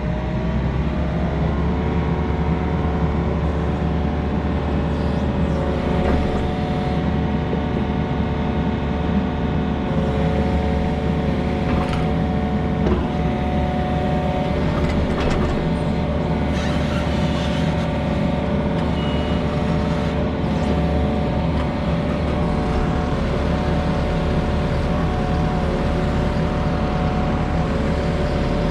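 A heavy-equipment engine running steadily at a constant speed, with a few short metallic knocks over it.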